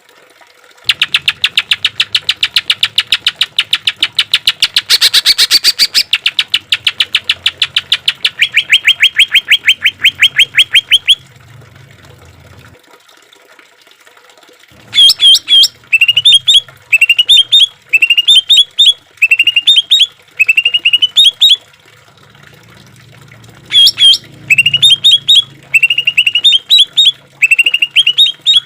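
Cucak ijo (green leafbird) singing loudly. First comes a fast rattling run of repeated notes, about nine a second, lasting around ten seconds and strongest near the middle. After a short pause it switches to a phrase of a sharp high note followed by short rising trills, repeated about once a second.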